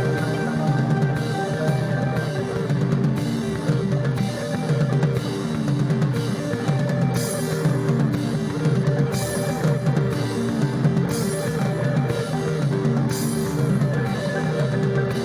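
Instrumental psychedelic rock played by a band: sustained electric guitar and bass notes over a drum kit beat. About halfway through, cymbal crashes come in roughly every two seconds.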